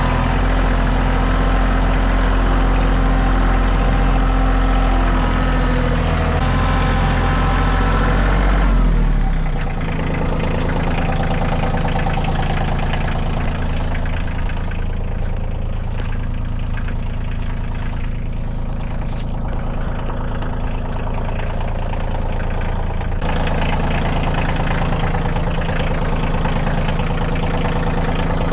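Tractor engine running steadily. About nine seconds in its speed drops, and about twenty-three seconds in it comes back up.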